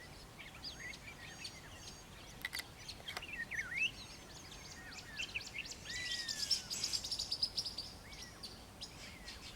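Morning chorus of several songbirds calling at once: scattered chirps and short whistles, with a rapid high trill and a long down-curving whistle about two-thirds of the way through.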